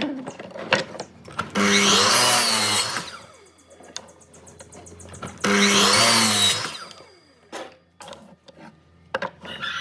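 A handheld electric power tool cutting wood in two short bursts of about a second and a half each, its pitch bending as it works. Between the bursts there are sharp knocks and clicks as the work is handled.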